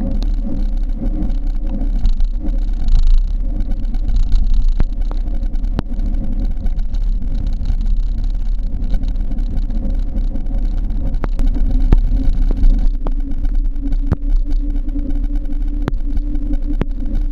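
Steady low wind rumble on the camera microphone from riding a bicycle, with a few sharp clicks at scattered moments.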